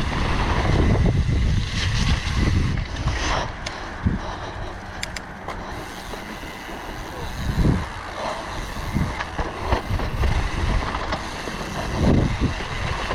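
Mountain bike riding down a rough, wet dirt trail: wind rushing over the microphone and the tyres rumbling, with sharp knocks and rattles from the bike over bumps several times.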